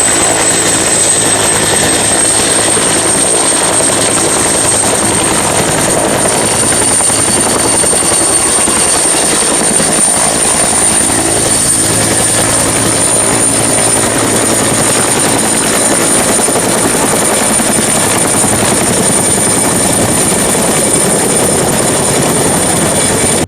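Helicopter running: steady rotor and engine noise with a high turbine whine that rises slightly over the first few seconds.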